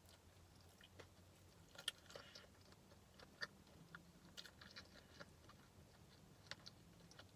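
Faint chewing of a crispy fried chicken sandwich: scattered small wet clicks and crunches, the sharpest about two seconds in, over a faint steady low hum.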